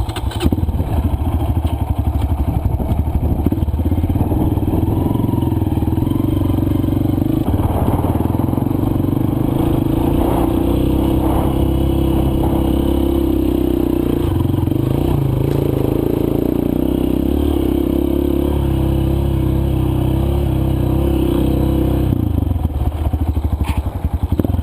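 Single-cylinder four-stroke dirt bike engine running steadily under load while riding a trail, with a brief dip in engine note near the end.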